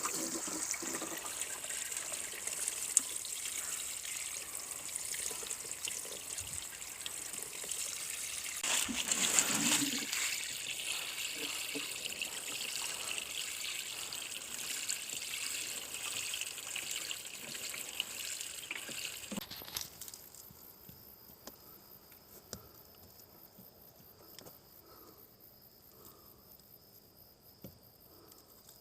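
Water sprinkled from a watering can onto an overheated air-cooled engine to cool it so it will start: a steady trickling, splashing hiss that cuts off suddenly about two-thirds of the way through. Crickets chirp faintly afterwards.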